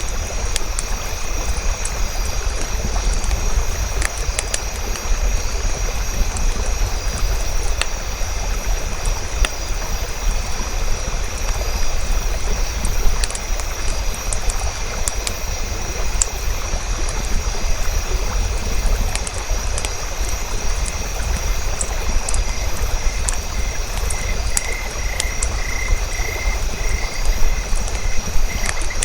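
Campfire crackling, with scattered sharp pops over a steady low rumble, set in a night-time nature ambience with a steady high trill. A repeated chirping comes in over the last several seconds.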